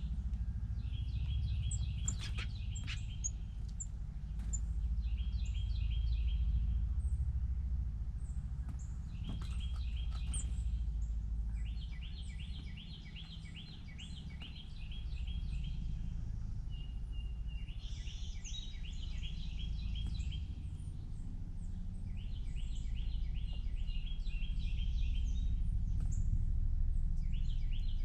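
Songbirds singing: fast trilled phrases of rapidly repeated notes, each lasting one to a few seconds and coming again every few seconds, over a steady low rumble.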